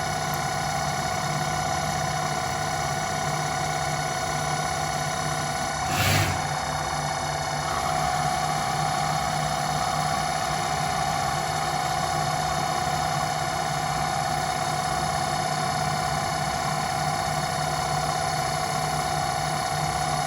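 Home-built CNC lathe running, its motors giving a steady whine of several fixed tones. About six seconds in there is a brief hissing rush, and from about eight seconds the sound turns slightly louder and hissier.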